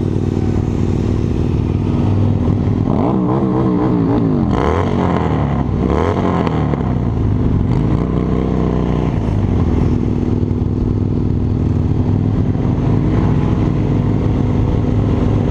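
Harley-Davidson V-twin motorcycle engine running while riding. Its pitch wavers and shifts about three to seven seconds in, then holds steady.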